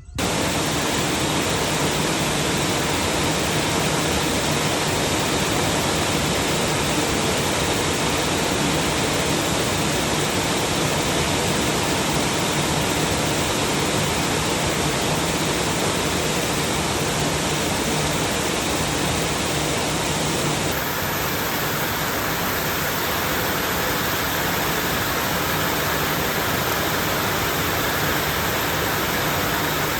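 Heavy rain pouring down in a dense, steady hiss, with a slight shift in tone about twenty seconds in.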